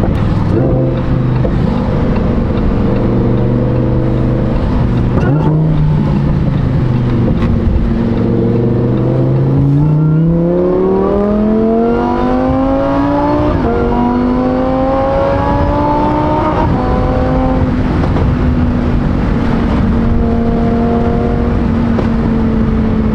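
Supercharged Lamborghini Huracan EVO V10 with a titanium race exhaust. It runs at a steady low pitch at first, then accelerates hard with the revs climbing steadily for several seconds, and upshifts with a sudden drop in pitch. It then settles into a steady cruise.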